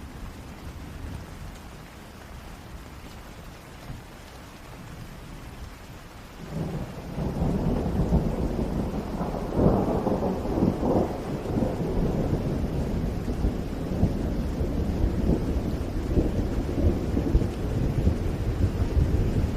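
Steady rain falling, with a long roll of thunder that breaks in about a third of the way through, swells to its loudest a few seconds later and keeps rumbling on.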